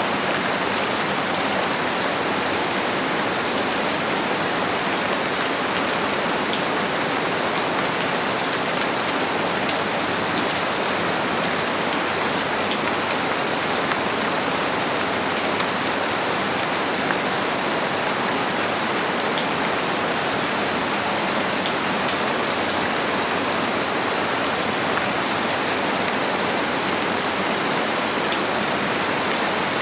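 Steady heavy rain falling on a surface, a dense even hiss with fine patter of individual drops.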